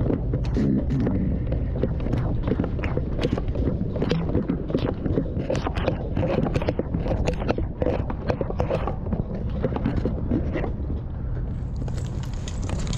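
A firefighter walking in turnout gear: a fast run of footfalls, knocks and scrapes of equipment over a steady low hum, with wind buffeting the microphone.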